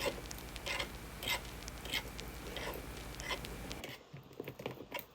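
Light taps or knocks, about one every two-thirds of a second, over a steady low hum. The hum cuts off near the end, leaving a few fainter clicks.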